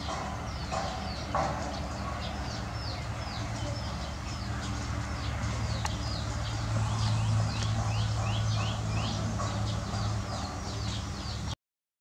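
Small birds chirping: a rapid run of short, high, downward-sliding chirps, several a second, over a steady low hum. The sound cuts out briefly just before the end.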